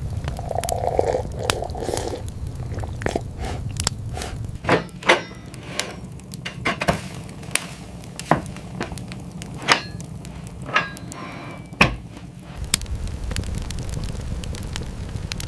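A series of sharp, irregular knocks and clicks, a few of them ringing briefly, over a steady low rumble.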